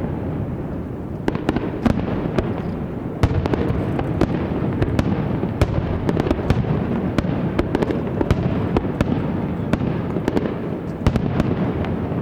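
Aerial fireworks going off in a dense barrage: many sharp cracks and bangs at irregular intervals over a continuous rumble of bursts.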